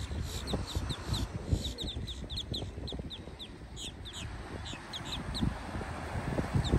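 Birds giving a quick string of short, high chirps in clusters, under uneven low rumbling from wind buffeting the microphone.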